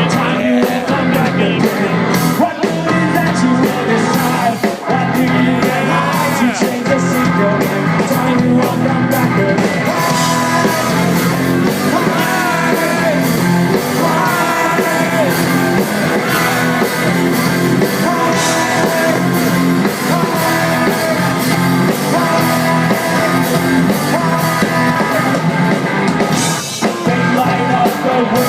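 Live rock band playing loud, with a singer's vocals over the band.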